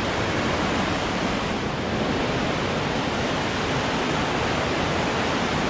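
The Fier river rushing through its narrow gorge: a loud, steady wash of fast water with no break or change.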